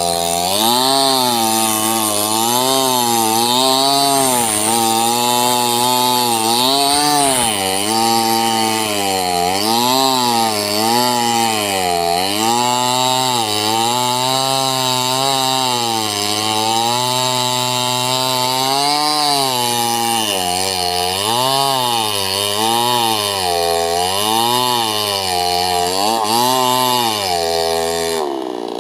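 Small two-stroke chainsaw running under load while cutting sengon wood, its engine pitch rising and falling about once a second.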